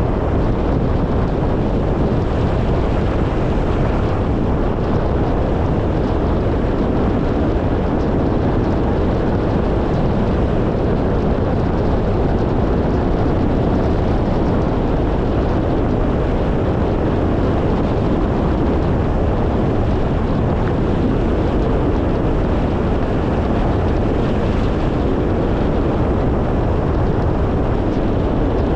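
Steady road noise of a car driving: a constant rumble of tyres and passing wind, strongest in the low end.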